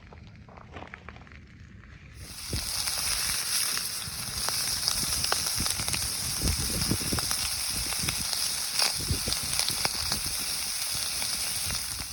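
Campfire burning: a loud, steady hiss with scattered crackles and pops. It starts abruptly about two seconds in, after fainter crackling.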